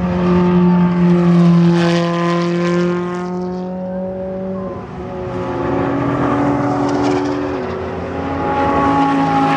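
Supercar engines accelerating along a track, a steady engine note with strong harmonics. About five seconds in, a second, higher engine note takes over and rises slightly.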